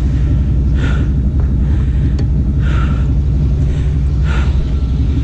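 Vehicle engine running steadily with a low hum. A brief higher-pitched sound repeats about every second and a half over it.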